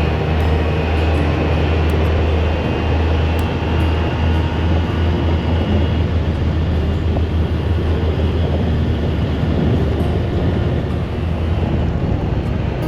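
Polaris Ranger side-by-side UTV running steadily while being driven: a continuous low engine drone with rolling noise over it and a few light clicks.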